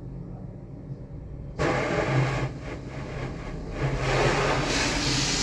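A water spray starts suddenly about a second and a half in, a loud hiss that eases briefly and then comes back strong, rinsing soap off a car. A steady low motor hum runs underneath.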